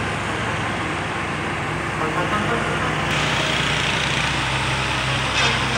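A truck engine runs steadily under way with road noise, a low even hum that grows a little louder about three seconds in.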